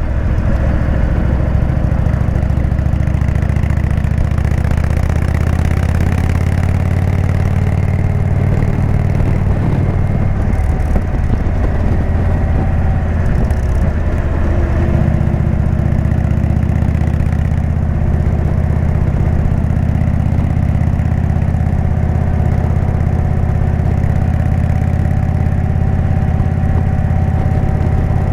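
Indian V-twin motorcycle engine running through a Jekill&Hyde exhaust. The note is steady, wavers and dips between about ten and fifteen seconds in, then settles again.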